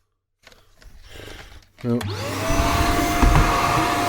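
Shark stick vacuum cleaner switched on about halfway through: the motor's whine rises quickly as it spins up, then settles into a steady run.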